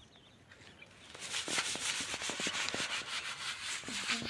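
A broom scrubbing a cement and tile washroom floor in quick back-and-forth strokes, starting about a second in.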